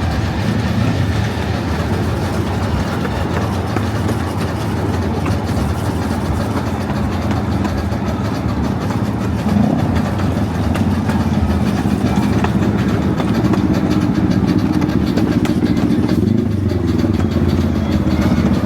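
Small coal-fired steam train running: a steady low rumble of the locomotive and its cars on the track, a little louder in the second half.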